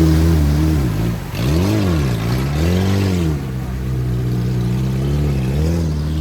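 Off-road SUV engine revving, its pitch swelling up and down twice in quick throttle blips, then holding steady before a short rise near the end.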